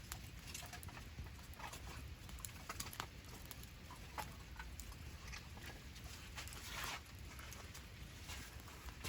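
Wood campfire crackling: faint, irregular pops and snaps from the burning wood.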